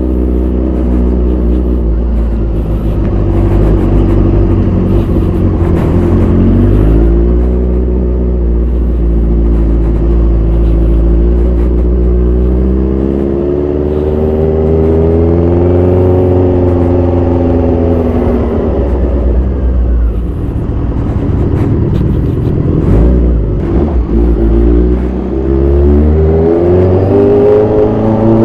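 Modified 2014 Kawasaki Z1000 Sugomi's inline-four engine running under way through its aftermarket exhaust. Its note rises under throttle and drops back several times with gear changes, falling low around two-thirds through and climbing again near the end.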